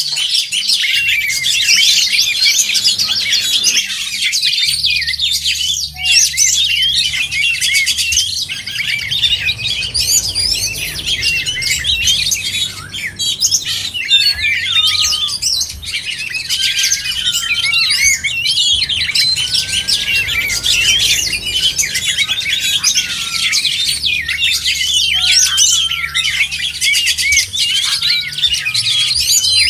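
Oriental magpie-robins (kacer) in full song: a dense, unbroken run of fast, varied chirps, trills and whistles with no pause.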